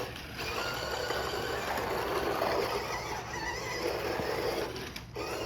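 Small electric motors of toy RC cars whining, the pitch rising and falling with the throttle, over a steady hiss.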